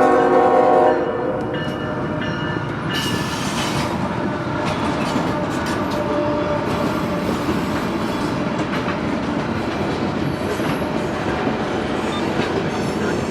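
Freight train horn ending about a second in, then the steady rolling noise of freight cars passing close by, with wheel clatter over the rail joints and a few brief high wheel squeals.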